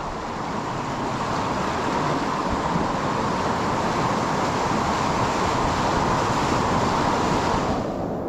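Whitewater rushing in a creek gorge: a loud, steady roar of water that swells slightly, then drops off sharply near the end.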